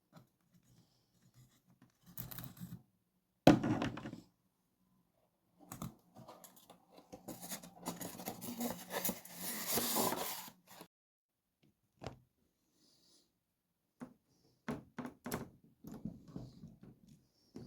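A model locomotive being unpacked from its box and packaging: a sharp knock about three and a half seconds in, a few seconds of rustling and scraping around the middle, and a run of short clicks near the end.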